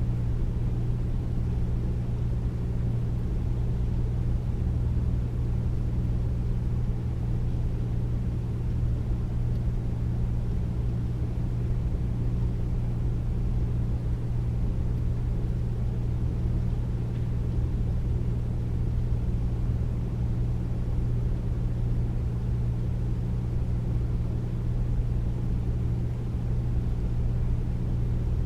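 Air conditioner running steadily: a deep, even hum and rumble with a low whoosh of airflow above it, unchanging throughout.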